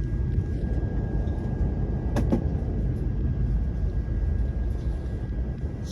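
Airliner cabin noise on the ground before takeoff: a steady low rumble from the engines and air system, with a faint steady high tone. A brief knock sounds about two seconds in.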